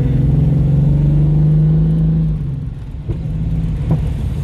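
Holden 202 straight-six engine in a VK Commodore pulling with a slowly rising note for about two seconds, then backing off and quietening, with a couple of knocks near the end. It is running rough on only four of its six cylinders.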